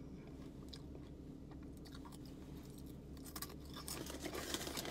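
A person chewing a crunchy snack close to the microphone: faint crunches at first, growing denser and louder in the last two seconds.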